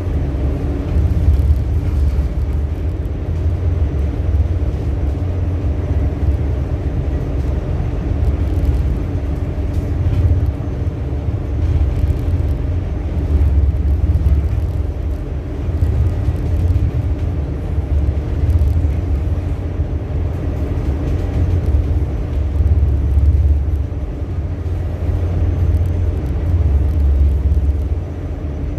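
Ship's engine running with a steady low rumble and a faint hum, swelling and easing every few seconds.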